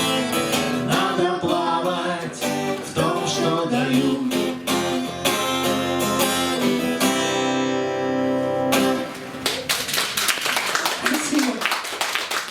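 Acoustic guitar playing the closing bars of a song, ending on a held chord about nine seconds in, followed by clapping.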